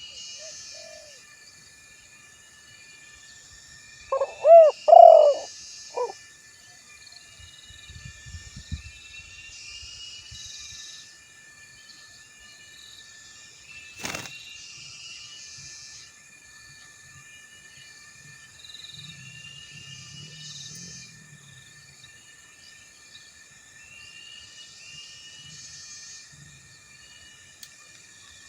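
Male spotted dove (tekukur) giving one loud cooing phrase of about four notes, around four to six seconds in. Repeated high chirping and a steady insect buzz continue throughout, with a single sharp click about halfway.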